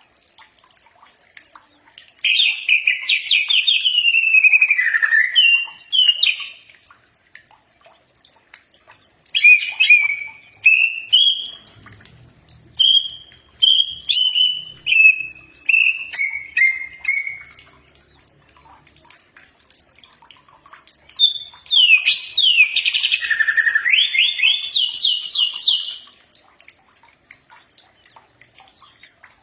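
A cucak ijo (green leafbird) singing three loud phrases of clear whistled notes. The first sweeps and warbles, the middle one steps downward note by note, and the last rises in quick repeated notes. Short pauses separate the phrases.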